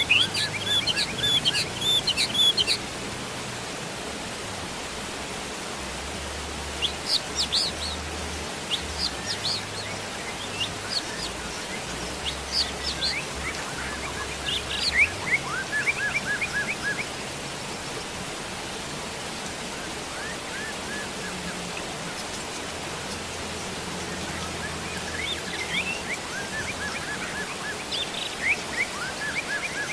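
Steady rain hiss with songbirds chirping over it: runs of quick, high chirps come every few seconds, the strongest near the start and around the middle.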